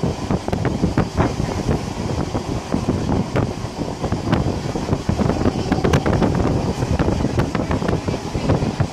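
Passenger carriage of a steam-hauled train running at speed, with a steady low rumble and many scattered sharp clicks. Wind noise on the microphone.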